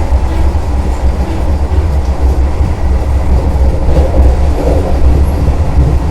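Vande Bharat Express train running at speed: a steady, loud low rumble of wheels on the rails with some clatter.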